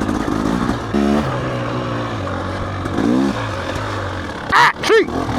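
Dirt bike engine running at low revs while being ridden, with two short throttle rises about one and three seconds in. Near the end come two short, loud sounds in quick succession.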